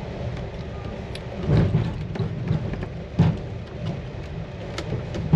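Steady low rumble of a train heard from inside a compartment, with a few sharp knocks and thuds; the loudest comes about three seconds in.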